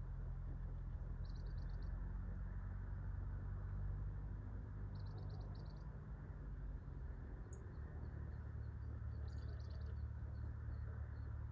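A small bird giving short, quick chirping trills of about six notes, three times, over a steady low background rumble.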